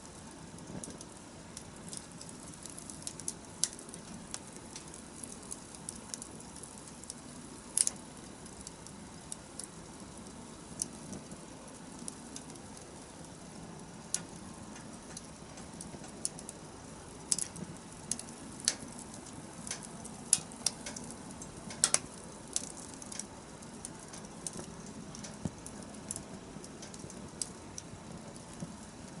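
Wood fire crackling: irregular sharp pops and snaps over a steady low rush of burning, with a few louder pops scattered through.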